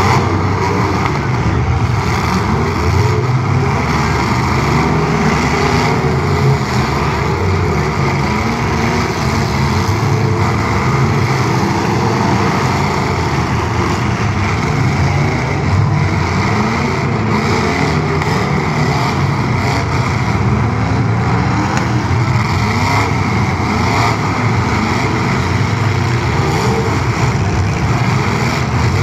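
Several full-size demolition derby car engines running and revving at once, their pitches rising and falling over one another as the cars push and ram.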